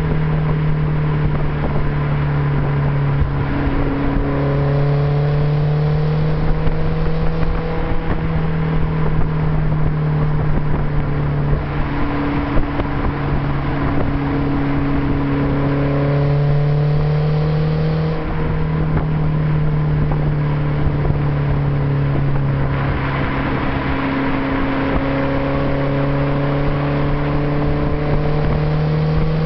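BMW Z3 1.9's M44B19 four-cylinder engine running through an OBX aftermarket exhaust. It holds a fairly steady engine speed, with small rises and dips in pitch throughout.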